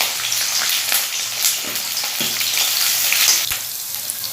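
Chopped ginger and green chillies sizzling in hot oil in a pan while being stirred, with a few sharp taps of the stirring spoon; the sizzle eases a little about three and a half seconds in.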